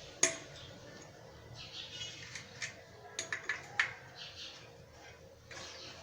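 Sharp metallic clinks of a wrench and bicycle hub parts being handled: one loud clink just after the start, then a quick run of clinks a little past three seconds in, with soft rustling between.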